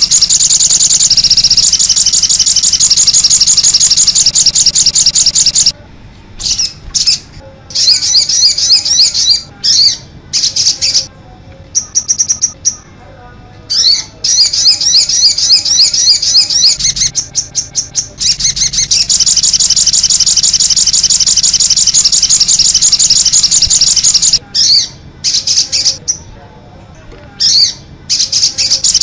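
Sogon (cit anten) bird singing loudly: fast, high-pitched chirping trills, continuous at first, then broken into short bursts with pauses in the middle and again near the end.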